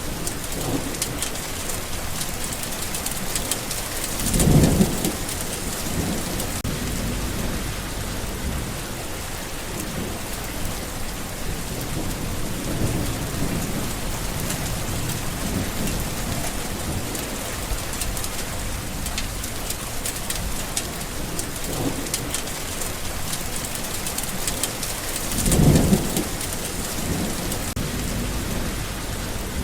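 Steady rain falling, with fine pattering drops throughout. Two short low rumbles rise above it, one about four seconds in and one near the end.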